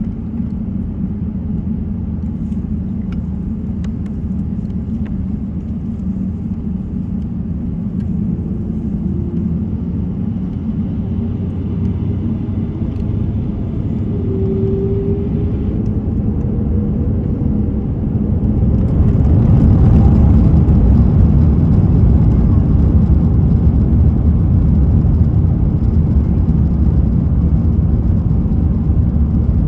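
Airbus A350-900's Rolls-Royce Trent XWB engines and airframe rumble heard from inside the economy cabin. The rumble is steady, then steps up louder with more hiss about two-thirds of the way through.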